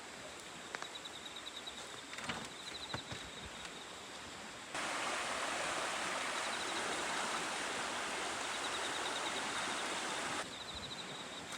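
Glacial meltwater river rushing steadily. The rush jumps suddenly louder about five seconds in and drops back just as suddenly about five seconds later. A short, high, fast trill repeats several times over the water.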